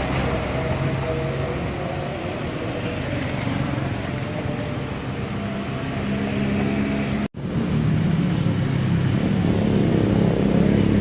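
A motor vehicle engine running steadily, cut off for an instant about seven seconds in, then coming back slightly louder.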